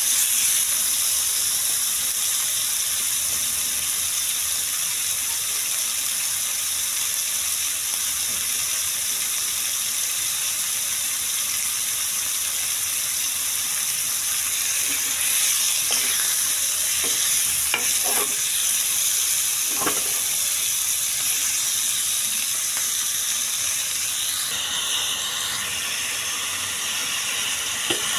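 Chicken pieces sizzling in hot oil on a flat pan with a steady high hiss. A spatula scrapes and stirs them a few times about midway.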